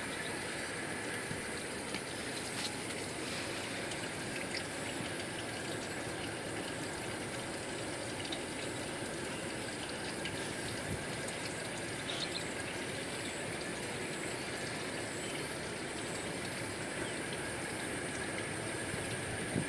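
Steady trickling, flowing water.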